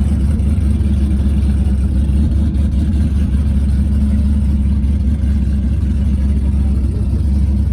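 A car engine running steadily close by with a deep low rumble, its pitch holding level and not revving.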